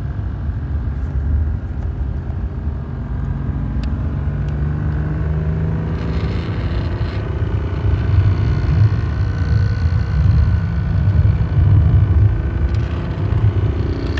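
BMW E36 328i straight-six engine running with revs rising and falling, carrying a rattle from the clutch pedal whose pitch and speed follow engine revs 1:1. The rattle is a fault the owner cannot trace; it stops when the clutch pedal is pressed lightly.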